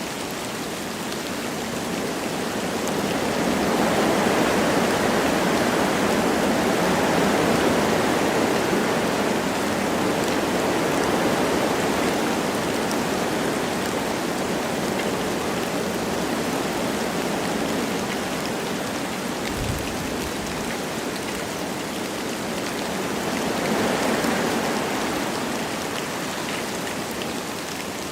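Wind blowing through forest trees with light rain pattering, a steady rushing hiss that swells in gusts, once about four seconds in and again near the end.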